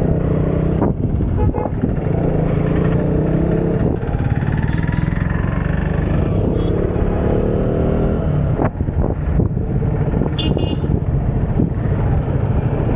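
Motorcycle engine running on the move, its pitch rising and falling as the throttle changes, with a brief high-pitched toot about ten seconds in.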